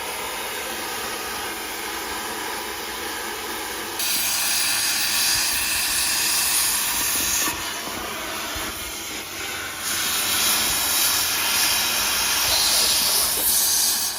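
Cutting torch hissing steadily as it cuts through a tractor fender's steel. The hiss jumps louder about four seconds in and again near ten seconds.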